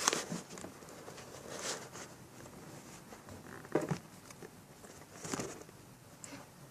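Intermittent rustling and crinkling from handling paper squishies and plastic bags: a few short bursts spaced a second or two apart, with quieter handling noise between them.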